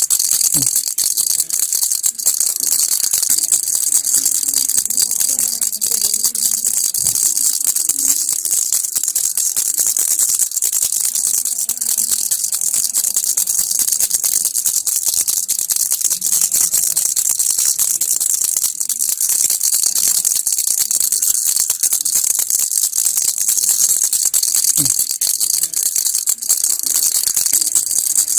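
A baby's toy rattle shaken without a break, a dense, steady, high rattling of small loose pieces.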